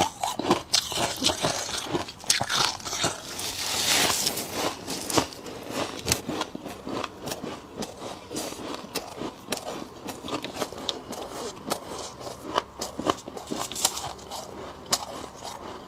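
Close-up crunching of frost being bitten and chewed: a dense run of sharp, crackling crunches, with a longer hiss about four seconds in.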